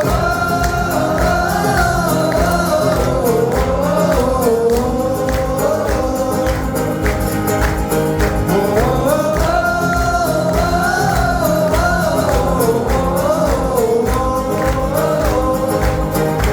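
Live band music: a voice sings a long wordless "whoa" melody that glides up and down over a steady beat.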